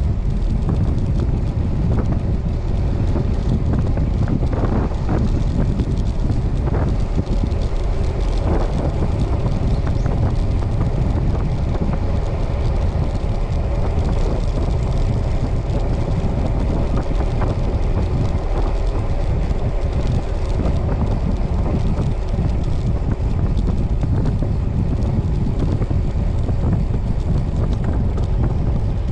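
Wind buffeting the microphone while riding a road bicycle: a steady low rumble.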